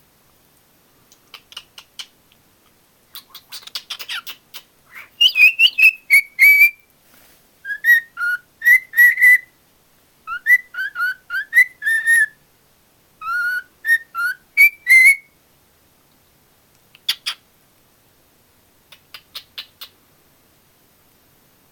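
Cockatiel whistling a string of short notes that slide up and down in pitch, loudest from about five to fifteen seconds in. Softer clicking chatter comes before and after the whistling.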